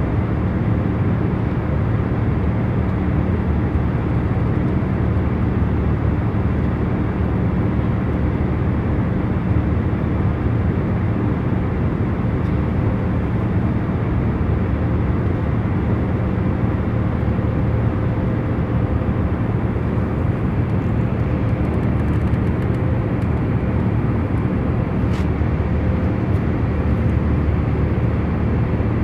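Airliner cabin noise in cruise: a steady, low rumbling hum of the aircraft in flight, with a few faint held tones under it and no change throughout.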